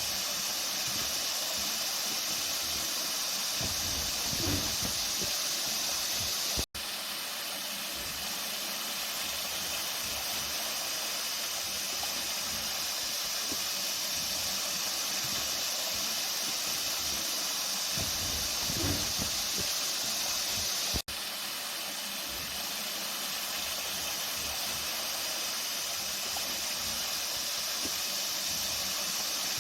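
Flowing water, a steady even rush with no speech. The sound drops out for an instant twice, about 7 s and 21 s in.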